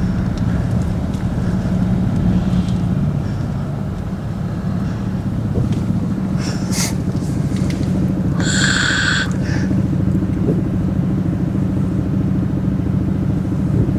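Car engine running steadily under way, a low even drone. About eight and a half seconds in, a brief high-pitched tone sounds for under a second.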